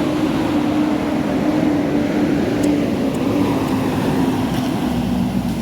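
A heavy vehicle's engine running steadily and loud, its pitch sinking slightly over a few seconds.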